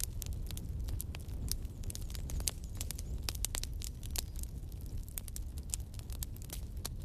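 Campfire burning: a steady low rumble of the flames with frequent sharp, irregular crackles and pops of burning wood.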